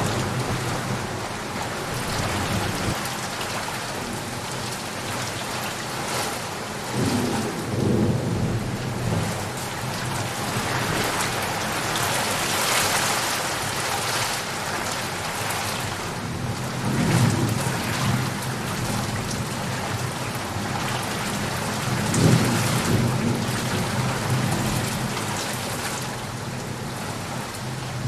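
Steady heavy rain falling, with rolls of thunder rumbling low several times: a thunderstorm.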